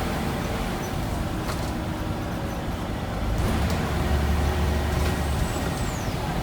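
Scania N94UB single-deck bus running, its diesel engine and road noise a steady low rumble that grows louder and deeper from about three and a half seconds in, as if pulling harder, then eases. A few light clicks and a short falling high whistle near the end.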